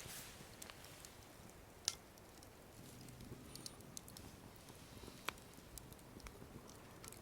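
Faint scattered crackles and sharp ticks from frying over an open wood fire, with a louder click about two seconds in and another about five seconds in.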